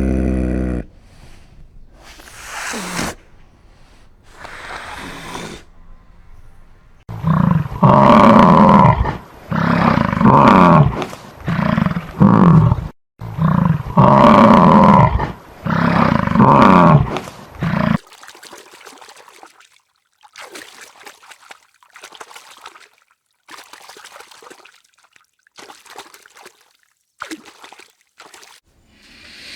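A large animal calling loudly over and over, a run of drawn-out calls about a second each with the pitch rising and falling, followed by faint scattered rustling sounds.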